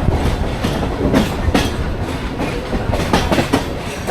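Mumbai suburban train running, a constant rumble with frequent irregular knocks from the wheels and carriages.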